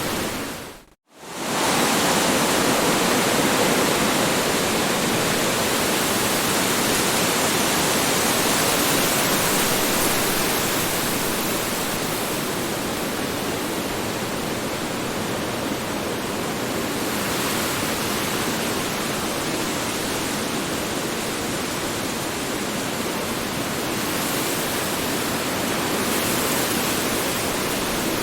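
Strong wind blowing as a steady rushing noise, briefly cutting out for a split second about a second in, then swelling a little before settling.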